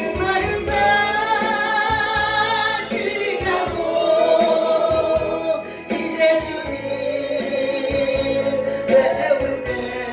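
Gospel hymn singing with instrumental accompaniment: long sung notes held over a steady backing.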